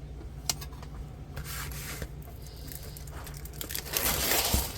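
Plastic packaging of a diamond painting kit rustling and crinkling as it is handled and torn open, with a click about half a second in and the rustling loudest near the end.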